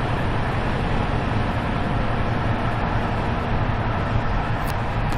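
Steady rumble of a passenger train carriage running at speed, its wheels and running gear on the rails, heard from inside the carriage.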